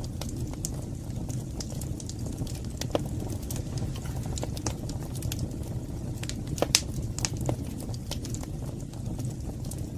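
Wood fire burning in a fireplace: a steady low rumble with irregular sharp crackles and pops, one louder pop near the seven-second mark.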